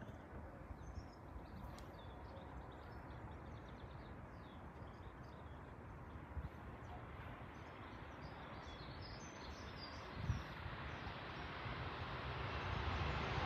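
Faint small-bird chirping over a low, steady background rumble, the rumble slowly growing louder near the end.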